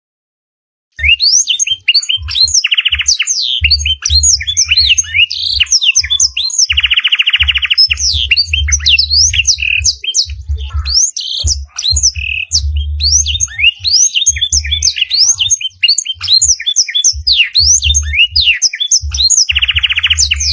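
Loud, dense canary song with blackthroat-style phrases begins about a second in. It is made of rapid, high, falling chirps and whistles, broken by three buzzy trills. A low hum pulses along under the louder passages.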